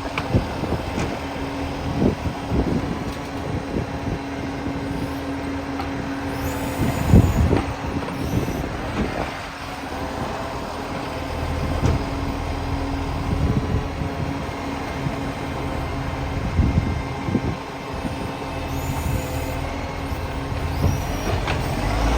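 Garbage truck's diesel engine running steadily, with the exhaust leak the truck is known for, among repeated knocks and a few short air hisses.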